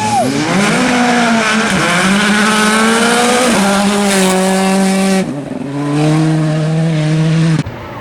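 R5-class rally car's turbocharged four-cylinder engine pulling hard through the gears, its pitch climbing then dropping sharply at each quick upshift, several times over, then holding nearly steady. The sound cuts off suddenly near the end.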